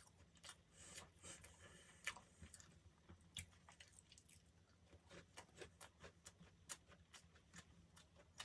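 A person chewing and biting soft pastry close to the microphone: faint, irregular wet clicks and smacks.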